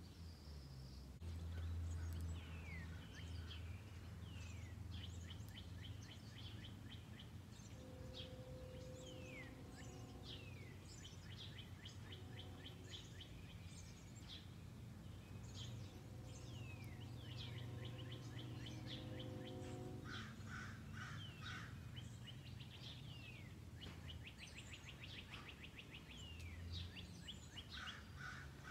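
Birds chirping and calling again and again, with short falling chirps and quick trills, over a steady low hum of background noise.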